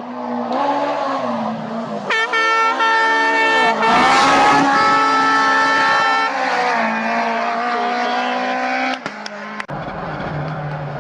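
Rally car engines at high revs, heard in compilation footage. About two seconds in, a louder car comes in close, its engine note dipping in pitch as it goes by. The sound changes abruptly near the end.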